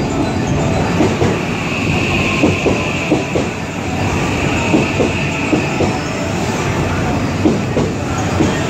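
JR West 323 series electric train moving along the platform, its wheels clacking irregularly over rail joints under a steady rumble, with a high wheel squeal that is strongest about two seconds in.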